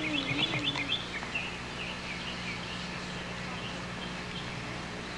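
Birds chirping in quick repeated notes, several a second, loudest in the first second and a half and then fainter, over a low steady hum.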